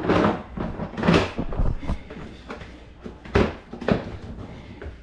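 Several knocks and clatters of things being handled, like a cupboard door or panel opening and closing, the loudest about a second in and about three and a half seconds in.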